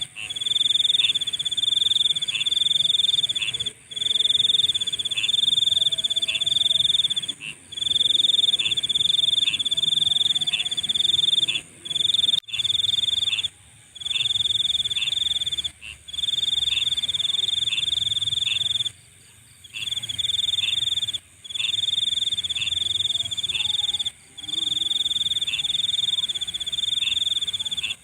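Night insects trilling: a loud, high, steady trill in phrases of a few seconds, each cut off by a brief pause, over a fainter, higher continuous buzz.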